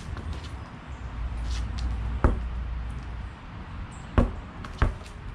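Inflated dirt bike tire on its rim being bounced on the ground to seat the beads: three sharp thuds, about two seconds in, then at four and five seconds, over a low rumble.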